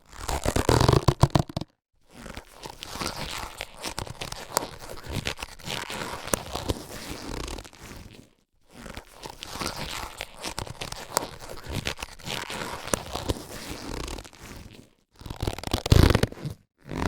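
Latex surgical gloves being handled, giving crinkly, rubbing noise with small clicks in uneven bursts. It breaks off into brief dead-silent gaps a few times, and is loudest at the start and about a second before the end.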